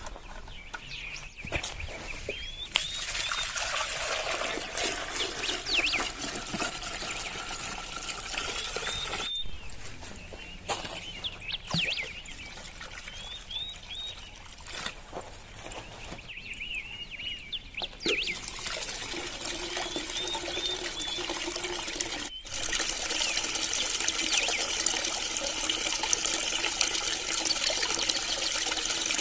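Water trickling and splashing steadily from a small homemade cement waterfall, with short high chirps here and there. The sound changes abruptly a few times.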